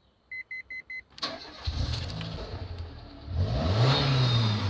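Four quick electronic beeps, then a click and a car engine starting and running, revving up about three and a half seconds in.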